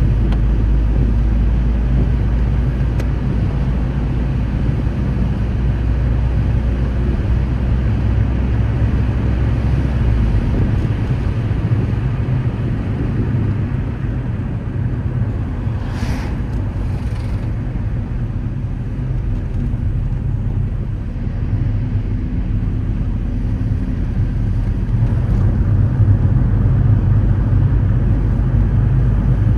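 Car being driven, a steady low engine and road rumble; the deepest part of the rumble drops about a third of the way in. A brief sharp click or knock about halfway through.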